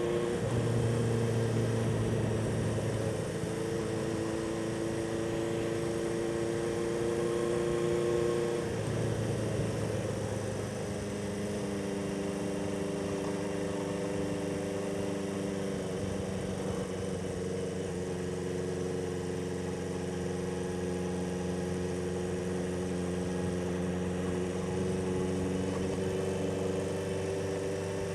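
1976 Honda CB400F's inline-four engine running on the road, its note breaking and changing pitch twice in the first ten seconds or so, then holding steady.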